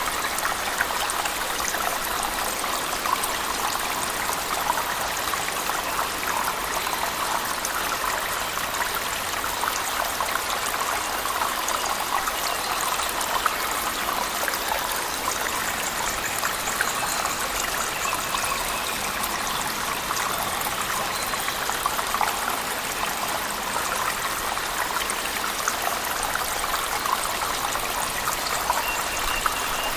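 Steady rushing and splashing of a cave waterfall blended with heavy rain, an even wash of water noise with many fine drop-like ticks.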